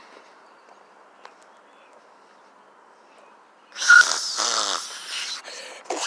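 A person making a loud, raspy snore-like vocal noise about four seconds in, with a falling pitch, followed by a few short breathy bursts near the end; before that only faint hiss.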